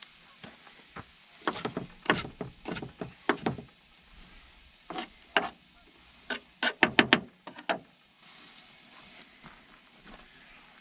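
Irregular knocks and clatters of hard objects being handled, with a quick run of about five sharp knocks about seven seconds in.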